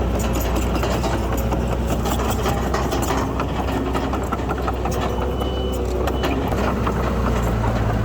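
Heavy construction-machine diesel engine running steadily with a low hum, with frequent small clanks and clicks over it. The engine note rises a little about seven seconds in.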